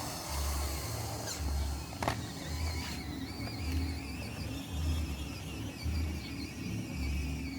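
Small electric motors of a radio-controlled construction model whining, the pitch wavering, over music with a steady low beat about once a second.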